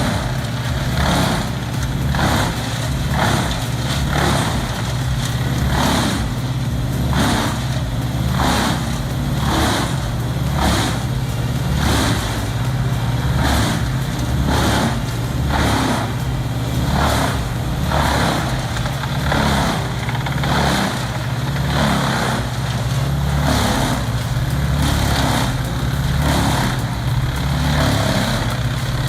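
A heavy engine running steadily, with a regular noisy pulse about every three-quarters of a second.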